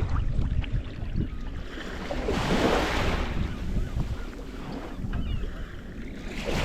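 Wind buffeting the microphone over water washing at a slipway, with a louder rush of water about two and a half seconds in and another near the end.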